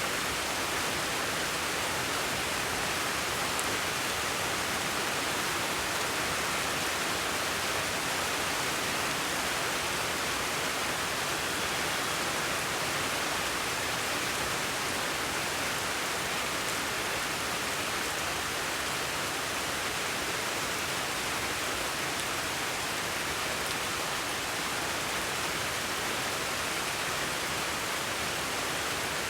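Steady, unbroken hiss of noise that does not change.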